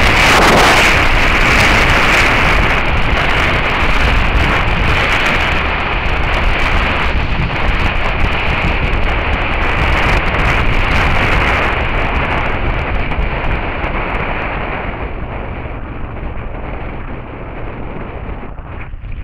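Heavy wind noise buffeting the microphone of an action camera on a moving Suzuki SV650S motorcycle, with the bike's V-twin engine and Beowulf exhaust running beneath it. The wind rush dies down over the last several seconds as the level falls.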